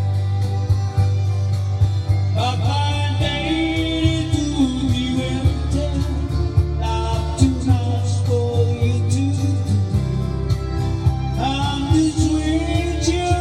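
Country-style song: singing over guitar with a steady bass and beat. The voice enters about two seconds in, and a new sung line starts near the end.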